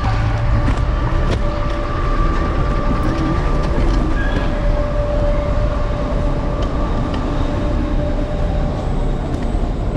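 Electric scooter riding at steady speed, heard from the handlebars: a heavy rumble of wind and road with a steady whine from the motor.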